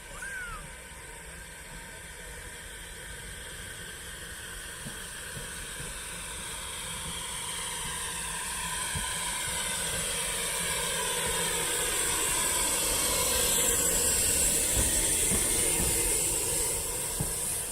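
A train approaching, its steady hiss swelling gradually over about fourteen seconds and then holding.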